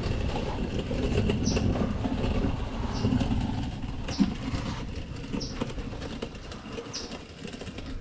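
A bird chirping, short high calls that slide downward, repeated about every one to two seconds over a low, steady rumble that slowly fades.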